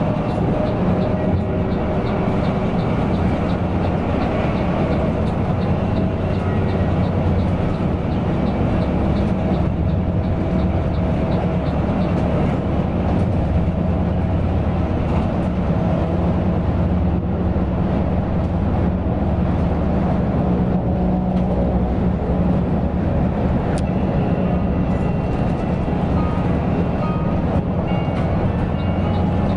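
Mercedes-Benz OC 500 RF 2542 coach on the move: a steady, loud engine and road rumble with no change in pace.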